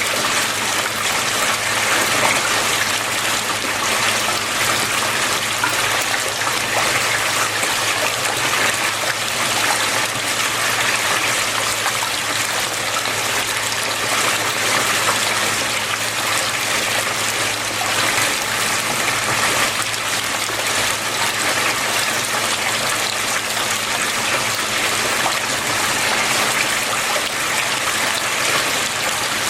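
Water flowing steadily, an even rush with no breaks or changes.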